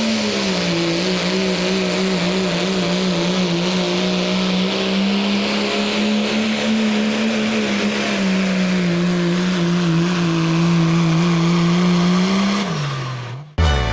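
Diesel truck engine running hard and steady under load during a truck pull, its pitch sagging slightly partway through and then falling away just before the sound cuts off near the end.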